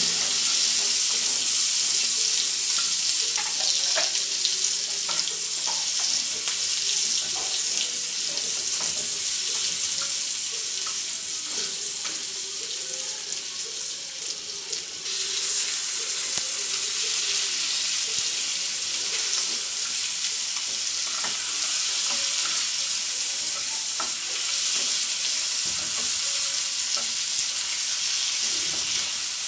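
Meat, onion and garlic sizzling in hot oil in a pan, stirred with a spatula that clicks and scrapes against the pan. The sizzle eases a little about halfway and comes back fuller just after.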